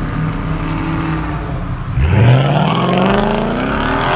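Car engine running at a steady speed, then revved hard about halfway in, its pitch climbing steadily.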